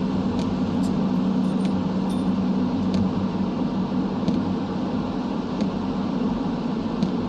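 Steady road noise and engine hum heard from inside a moving car, with a low drone and scattered short ticks.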